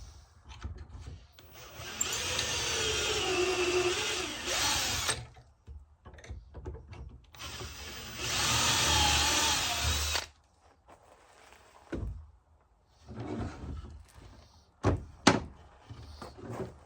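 Power drill boring two pocket holes through a Kreg jig into wood: two bursts of drilling, about three and two seconds long, with the motor's pitch wavering under load. A few sharp knocks follow near the end.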